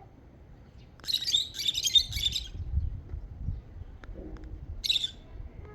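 Small birds chirping: a quick run of high chirps lasting about a second and a half, then one short burst of chirps near the end, over a low background rumble.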